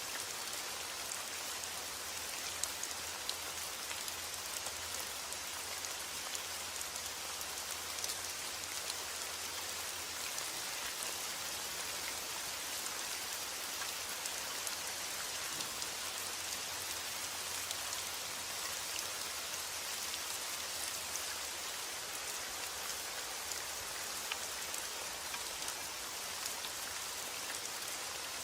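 Steady rain falling, an even hiss with many small drop ticks scattered through it and no change in strength.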